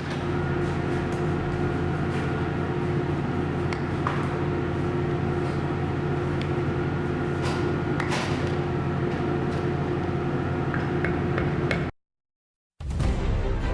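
Steady mechanical hum of a running machine, with a few short clicks and knocks from metal tools. It cuts off abruptly near the end.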